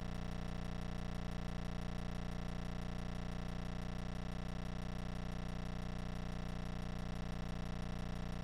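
A steady, unchanging hum with many even overtones, holding the same pitch and level throughout.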